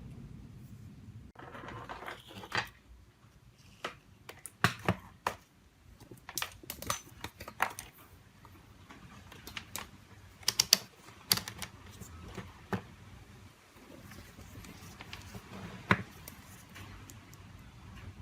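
Irregular small clicks and taps of phone parts and small hand tools being handled during a smartphone repair, coming in clusters, with a brief soft rustle about two seconds in and one sharp tick near the end.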